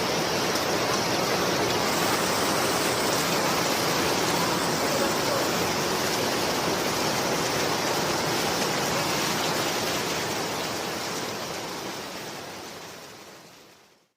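Heavy rain falling, a steady hiss that fades out over the last few seconds.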